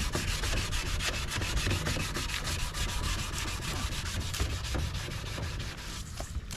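Wet-sanding a plastic headlight lens: a rapid, even back-and-forth rasping that stops shortly before the end.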